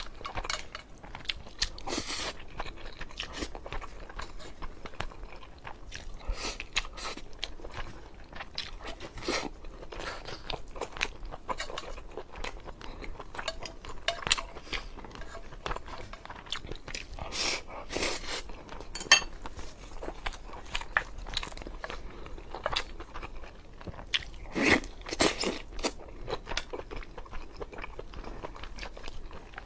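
A person eating a braised pork rice bowl close to the microphone, chewing and biting with many irregular short crunchy clicks and wet smacks.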